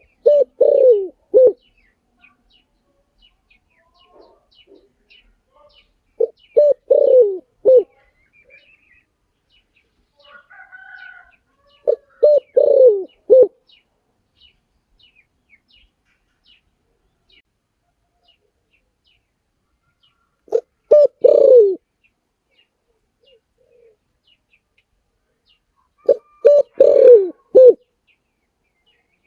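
Spotted dove cooing: five phrases of three to four low falling notes each, a few seconds apart. Faint high chirps from small birds run in the background.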